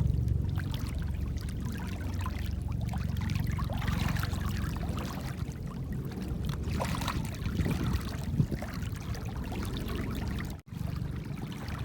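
Small waves lapping and splashing at a lake's edge, an irregular watery wash.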